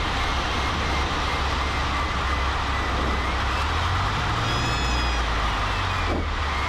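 Cessna 152's four-cylinder Lycoming engine running at low power with steady cockpit noise, heard from inside the cabin on the landing approach and roll. The hum steps up slightly about four seconds in, and a brief faint knock comes near the end.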